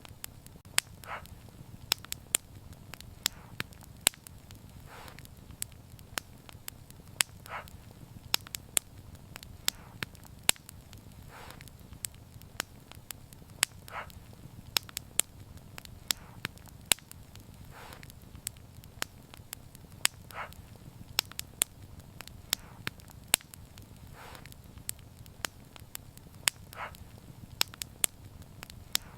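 Wood fire crackling: many sharp, irregular pops and snaps over a low steady rumble, with softer muffled pops about every two seconds.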